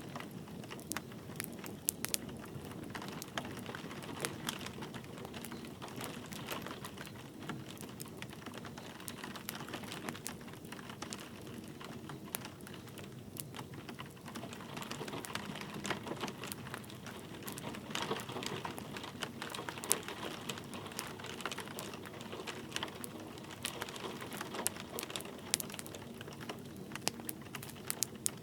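Wood fire crackling, with frequent irregular sharp pops and snaps, over a soft steady patter of light rain.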